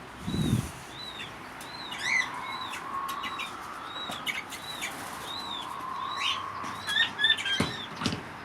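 Quail calling over and over, a short rising-and-falling note about twice a second, with other aviary birds chirping over it. The chirps are loudest about seven seconds in.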